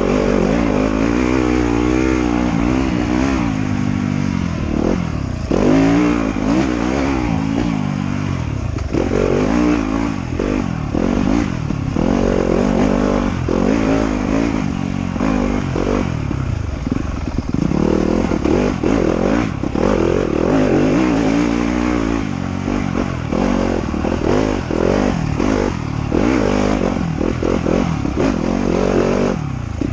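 Off-road motorcycle engine revving hard and easing off again and again, its pitch rising and falling with the throttle.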